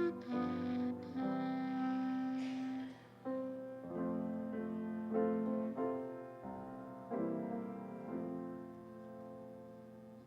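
A slow, quiet piano passage within a clarinet-and-piano piece, its notes ringing and dying away and softening toward the end.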